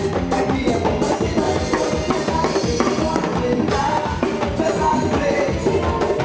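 Band music with a drum kit keeping a steady beat, without singing.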